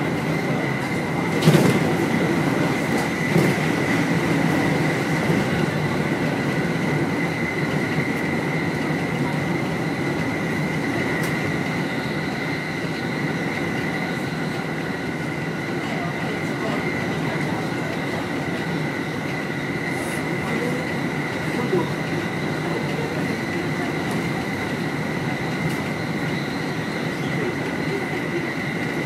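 Sōbu Line rapid electric train running at speed, heard from inside the leading car: a steady rumble of wheels on rail with a constant high whine. A sharp clack about a second and a half in, and a few fainter knocks later.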